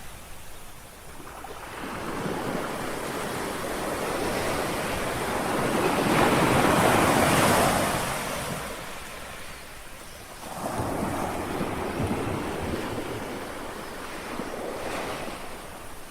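Calm sea waves lapping on a shore: one wave swells to a peak about halfway through and washes back, and a second, smaller one breaks a few seconds later.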